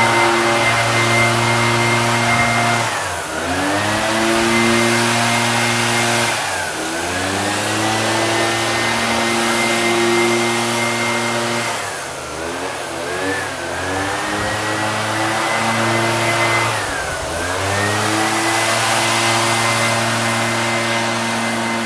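Small two-stroke engine of a handheld power tool running at high speed and held steady, its revs dropping briefly and climbing back about four times, once as a quick double dip.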